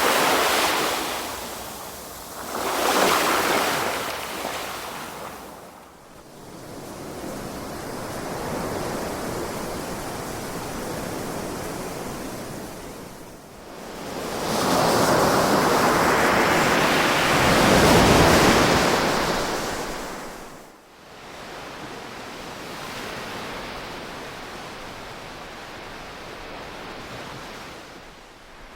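Ocean waves breaking and washing up the shore in surges. Two short swells come near the start, then a steadier wash. The loudest and longest wave comes a little past halfway and dies away into a softer, steady wash.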